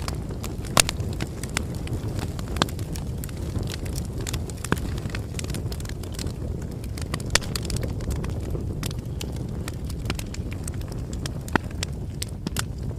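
Wood fire burning: a steady low rumble with irregular crackles and pops, a few louder snaps scattered through.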